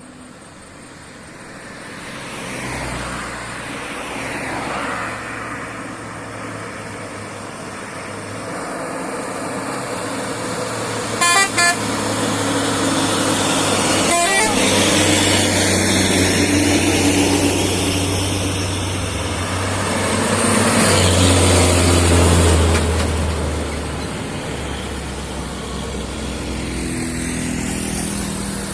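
Vehicle traffic with heavy engines running, one swelling loudest about twenty-one to twenty-three seconds in. Two short horn toots sound about eleven seconds in.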